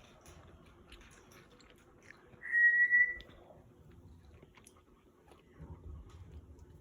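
Congo African grey parrot giving one short, steady whistle, slightly rising, about two and a half seconds in, over faint scattered clicks.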